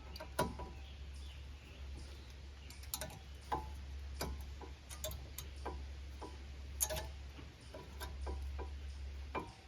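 Irregular light metallic clicks and taps, some with a brief ring, as new front brake pads are worked up into the caliper bracket and its clips on a 2020 Chevy Trax.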